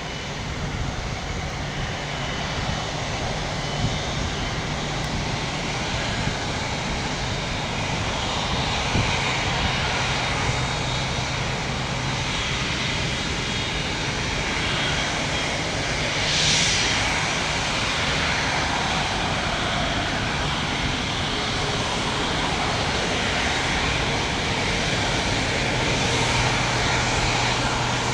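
Airbus A330 freighter's jet engines running steadily, slowly growing louder, with a short whoosh about halfway through.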